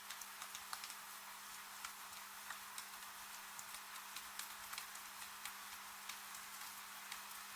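Steady rain hiss with irregular, scattered ticks of drops landing, over a faint steady low hum.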